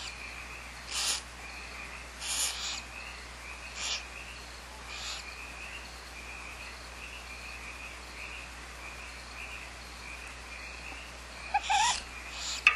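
Barn owls at the nest giving short hissing calls: several spaced through the first half, and a louder cluster near the end with a few brief chirps.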